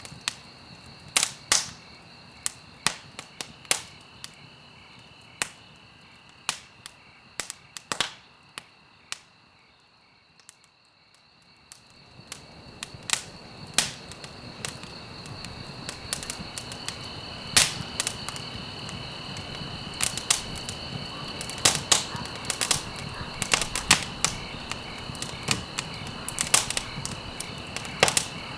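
Wood fire crackling in a fireplace: sharp pops and snaps over a low hiss. It turns quieter around ten seconds in, then comes back with a louder hiss and denser popping.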